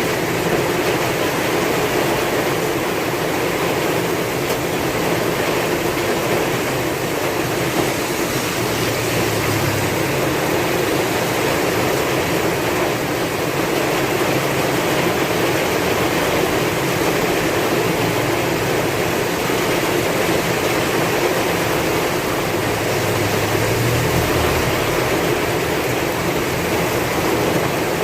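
Heavy rain falling steadily in strong wind, an even rushing hiss, with a low rumble swelling briefly twice.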